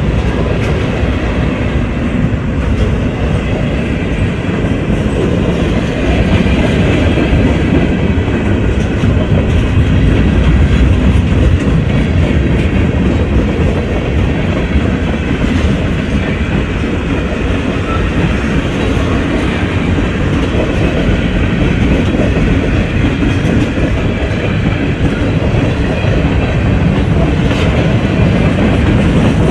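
Train rolling past, a loud steady rumble of wheels on the rails.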